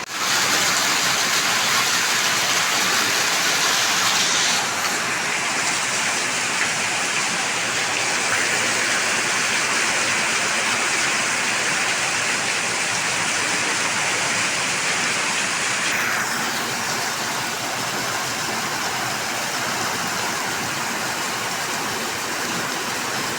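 Heavy rain pouring down, a loud steady hiss. Its tone shifts slightly about five seconds in and again about two-thirds of the way through.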